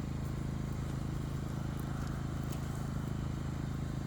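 An engine running steadily at idle, giving an even low hum with a fast pulse and no change in speed.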